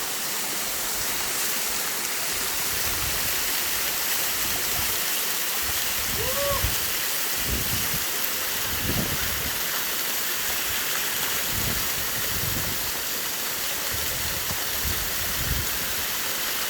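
Steady rush of falling water from a mountain waterfall, with a few low thumps and one short rising sound about six seconds in.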